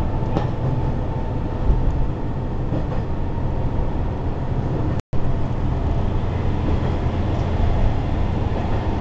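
Running noise inside a Sanriku Railway diesel railcar: a steady low rumble of the engine and the wheels on the track. The sound cuts out briefly about five seconds in.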